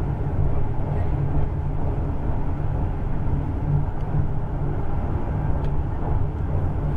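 Steady low rumble inside a passenger train carriage running at speed.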